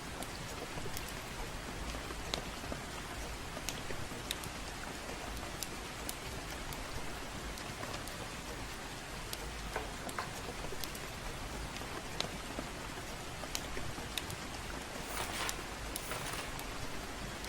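Gentle rain falling steadily, with scattered sharp crackles from a wood fire. A brief louder hiss rises near the end.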